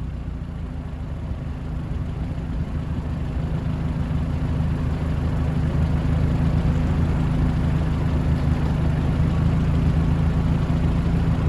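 A 2005 Lotus Elise's four-cylinder engine idling steadily, heard from outside the car.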